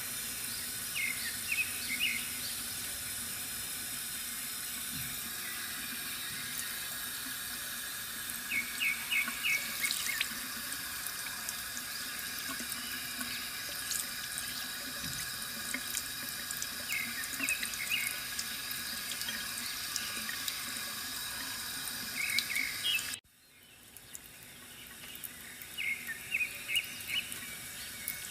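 Water running steadily from a bamboo fountain, with short bursts of bird chirps every several seconds. About three-quarters of the way through, the sound cuts out abruptly and then fades back in.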